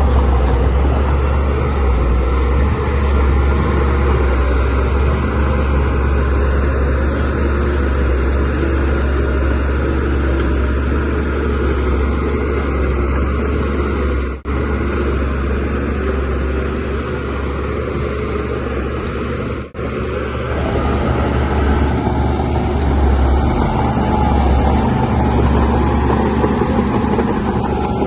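Shantui DH17C3 bulldozer's diesel engine running steadily under load, with a deep low drone. The sound cuts out for an instant twice partway through.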